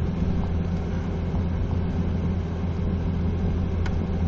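Steady low drone of a car's engine and tyres on the road, heard from inside the moving vehicle's cabin.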